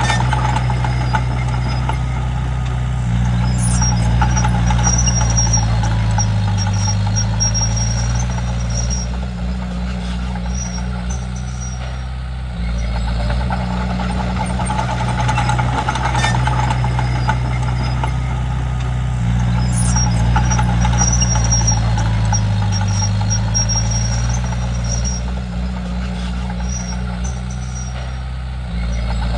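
Komatsu D31P bulldozer's diesel engine running under working load, its note sagging and recovering twice, with brief high-pitched squeaks from the machine.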